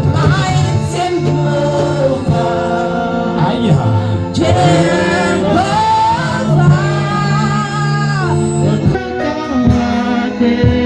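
Gospel music: voices singing long held notes over a band with bass.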